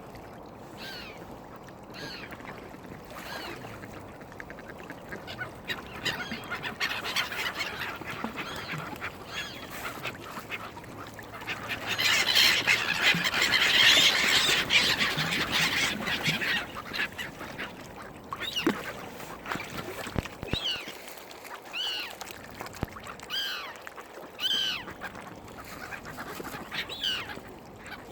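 Waterfowl and gulls calling over food: repeated short, high, arching calls and quacking, with a loud rush of noise about halfway through.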